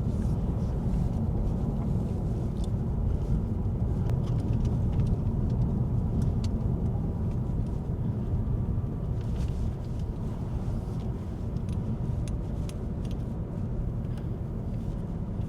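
Steady road and engine noise heard inside a moving car, a low rumble with a few faint clicks.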